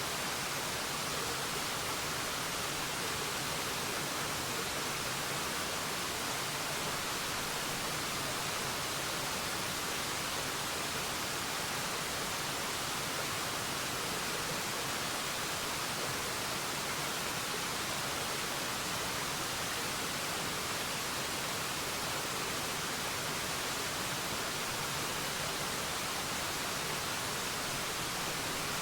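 Waterfall: a steady, unbroken rush of falling water, an even hiss that never changes.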